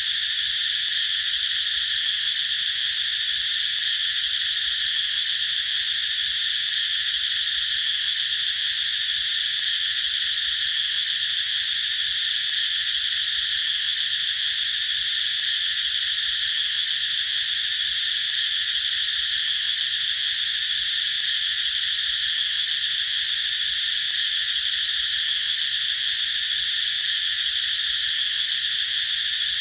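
Cicadas singing in a continuous, unbroken high-pitched drone that holds steady throughout.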